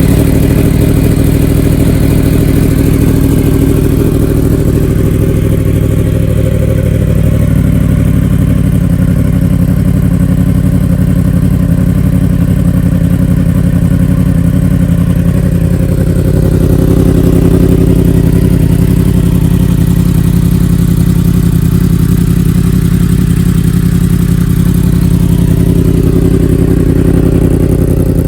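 Yamaha R1's inline-four engine, just started, idling loud and steady through a new aftermarket exhaust with its baffle removed. The idle lifts slightly for a few seconds past the middle.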